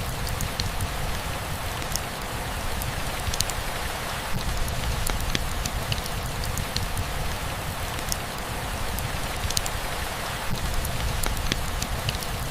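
Steady rainfall: an even hiss of rain with scattered individual drops ticking, over a low, constant rumble.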